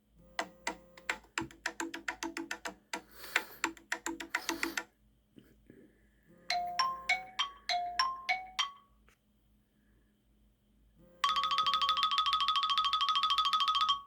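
Old iPhone ringtones played one after another: first a busy run of percussive hits, then a short melody of stepping notes, and after a pause a steady, rapid electronic trill for about three seconds that stops abruptly.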